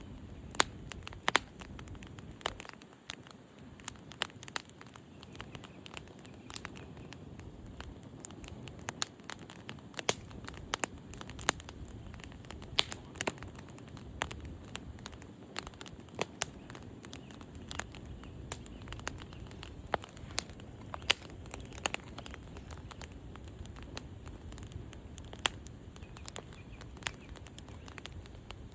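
Wood fire crackling: irregular sharp pops and snaps, several a second, over a low steady rush of flame.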